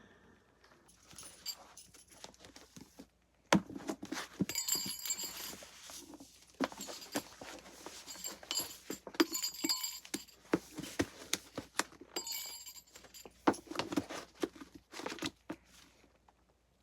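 Books being handled and moved about: a string of sharp clicks and knocks with bouts of rustling and crinkling.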